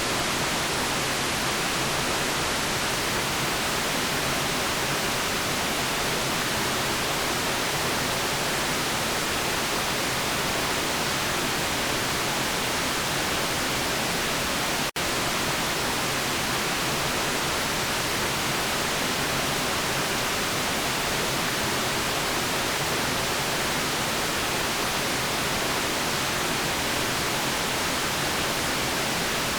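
Steady electronically generated white noise, an even hiss with no changes. It cuts out for a split second about halfway through.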